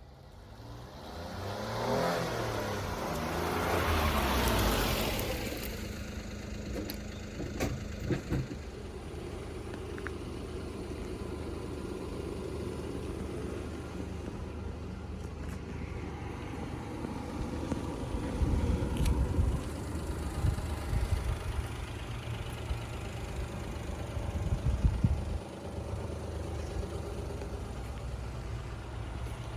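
1996 Daihatsu Hijet mini truck's small three-cylinder engine starting and revving up, then settling into a steady idle, with two short throttle blips later on.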